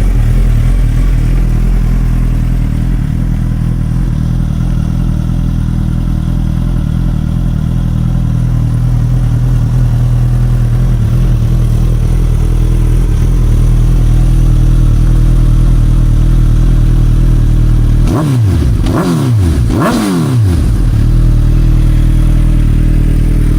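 2021 Suzuki Hayabusa's inline-four engine idling steadily through its exhaust, with two quick throttle blips near the end, about two seconds apart.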